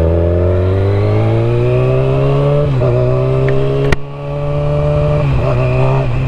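Motorcycle engine under way, its pitch climbing steadily for about three seconds and then breaking at gear changes about 3 and 5 seconds in. A single sharp click just before 4 seconds, with a brief drop in loudness after it.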